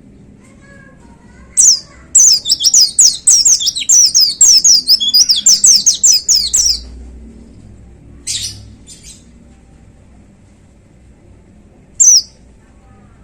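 White-eye (pleci) singing a rapid, high-pitched burst of song lasting about five seconds, then a couple of short chirps and one last chirp near the end.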